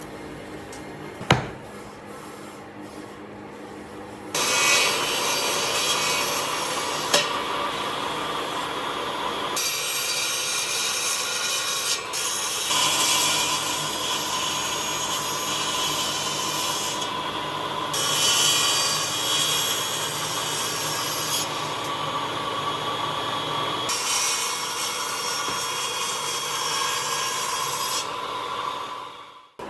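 A tool working wood, with a steady cutting or sanding sound. It starts about four seconds in and runs in several stretches that change abruptly, after a single sharp knock about a second in.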